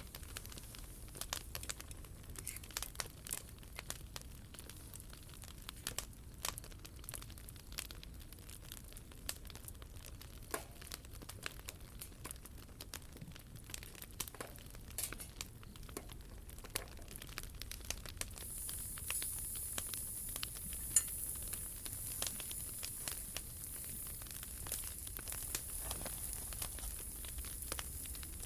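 Wood fire crackling, with frequent irregular sharp pops and snaps over a low steady rumble. About two-thirds of the way through a steady high hiss joins in and continues.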